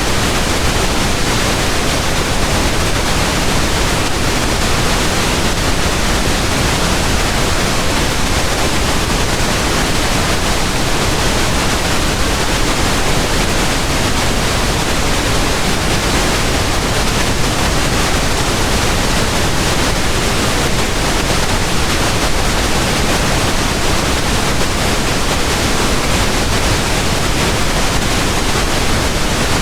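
Pink noise: a steady, even hiss with no changes, pitch or events.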